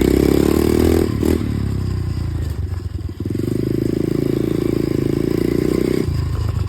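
Dirt bike being ridden, its drive note running steadily with short dips as the throttle eases about a second in, near the three-second mark and just before the end, heard from a chest-mounted phone.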